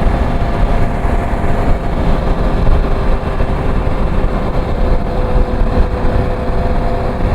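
Motorcycle engine running steadily while riding, under a heavy, constant low rush of wind noise.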